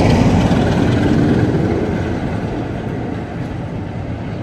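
Low rumble of a slow-moving passenger train as its last coaches and a green diesel locomotive on the rear pass close by, growing steadily quieter as the train draws away.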